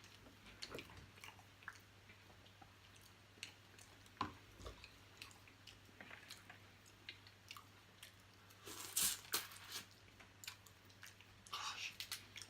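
A person chewing and crunching food close to the microphone: short, irregular mouth clicks and crunches, with a louder burst of crunching about nine seconds in and another near the end.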